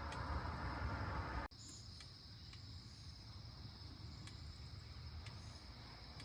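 Faint outdoor ambience: a steady high insect trill over a low rumble. A louder rushing noise fills the first second and a half and cuts off abruptly.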